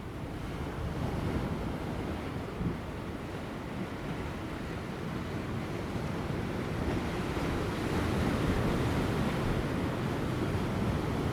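Large ocean waves breaking on offshore rocks just before high tide, a continuous surf wash that swells louder about two-thirds of the way through.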